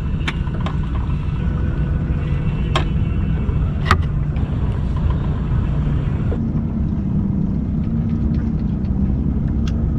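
Wind buffeting the microphone in a steady low rumble on a small boat, with a few sharp clicks, the loudest about four seconds in.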